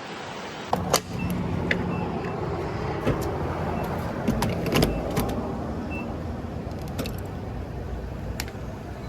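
Car running, with a steady low rumble and a string of sharp clicks and rattles.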